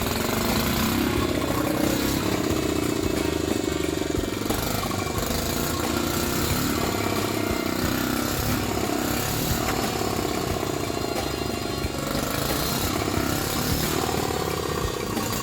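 Restored 1950 BMW 250 cc single-cylinder motorcycle engine running after its first rope start, its speed rising and falling.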